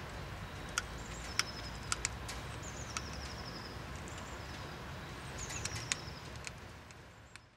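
A small bird's high, thin note, dropping briefly and then held, repeated about every second and a half. Scattered sharp clicks sound over a low steady outdoor rumble, and everything fades out at the end.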